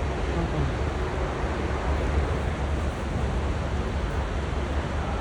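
Steady low rumble and hiss with no distinct events, typical of wind buffeting a phone microphone outdoors.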